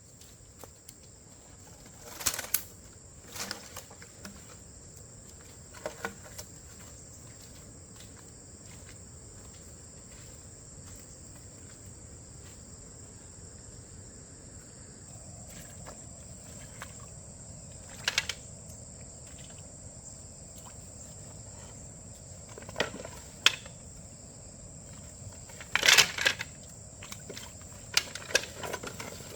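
Steady high-pitched insect chirring, with scattered sharp knocks every few seconds, the loudest cluster near the end.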